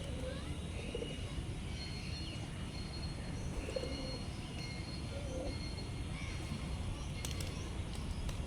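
Doves cooing in soft low notes, with other small birds chirping and whistling higher up, over a steady low rumble. A couple of brief clicks near the end.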